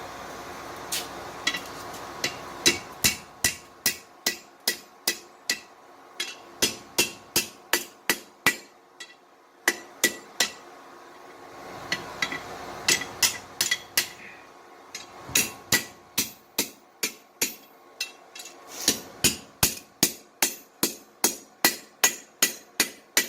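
Blacksmith's hammer striking hot steel bar stock on an anvil, in runs of quick, regular blows about three a second, each with a bright ring. A steady rushing noise fills the pauses between the runs.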